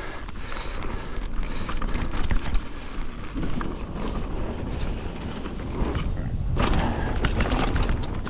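Mountain bike riding down a dirt trail: wind buffeting the microphone with a low rumble, and the tyres and bike rattling over the ground in many short clicks. A louder rush of noise comes in about six and a half seconds in.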